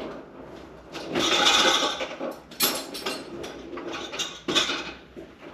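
Household objects being handled: knocks and clatter like dishes or utensils, with a stretch of hissing or rustling about a second in.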